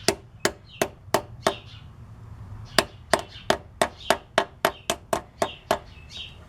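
Hammer tapping a new head dowel bushing into place on a 6.5L diesel engine: a series of sharp, evenly spaced taps about three a second, with a pause of about a second before a longer run of taps.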